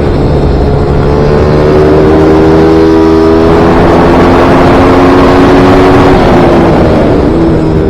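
Small single-cylinder racing motorcycle engine, MiniGP or pit bike, running hard at high revs. Its pitch climbs over the first few seconds, holds, dips briefly near the end, then rises again.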